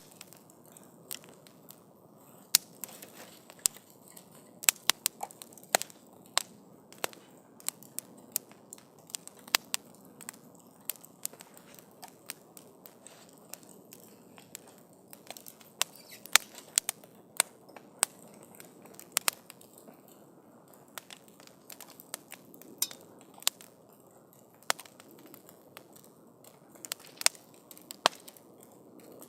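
Wood campfire crackling: irregular sharp pops and snaps, a few a second, over a soft steady hiss of burning.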